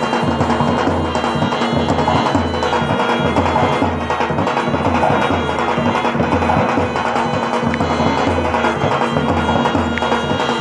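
Live Rajasthani folk music with no singing: a steady drum beat under a sustained, droning melody instrument, with sharp clacking percussion on top.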